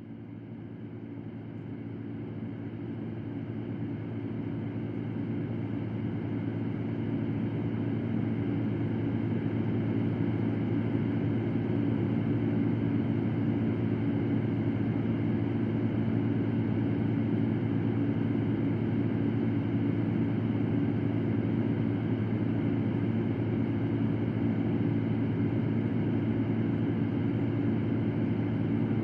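Electric fan running steadily: a low hum over even rushing air. It fades up from quiet over about the first ten seconds, then holds level.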